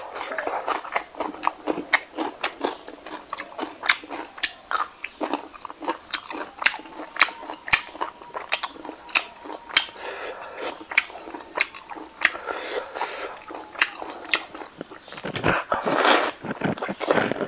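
Close-miked mouth sounds of a man chewing green chilli and fried pork belly: a steady run of sharp chewing clicks. About a second from the end he bites into a piece of fatty pork, the loudest stretch.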